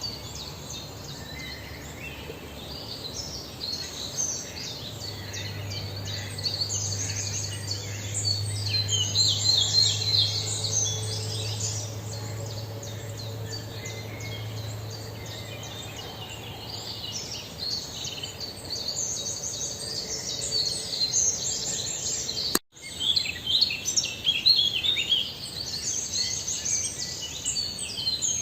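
Many small birds chirping rapidly and continuously in high, twittering calls, with a low steady hum under them for several seconds in the first half.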